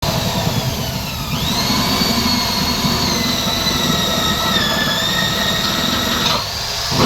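A power tool's motor running, its high whine rising to speed about a second in and holding steady over a rough low rumble, then dropping off near the end.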